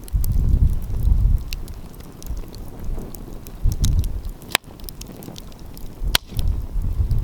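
Wood fire crackling with scattered small snaps, and two sharp loud pops about a second and a half apart in the second half. Gusts of wind rumble on the microphone.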